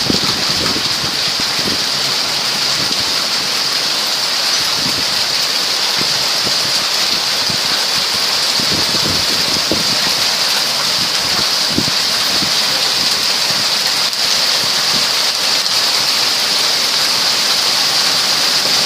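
Rain falling steadily, a constant hiss.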